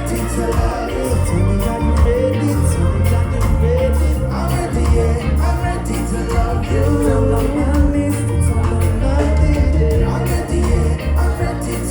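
Live reggae band music, with a strong pulsing bass line and a melodic lead.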